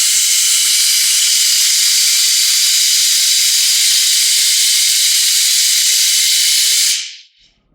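Air-operated motorcycle lift table lowering, venting compressed air in a loud, steady hiss that dies away about seven seconds in.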